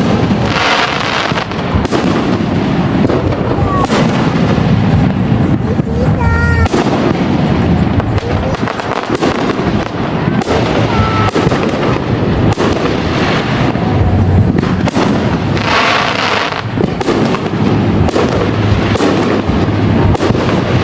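Fireworks display: a steady run of aerial shell bursts booming one after another, with two spells of dense crackling glitter, about a second in and again about sixteen seconds in.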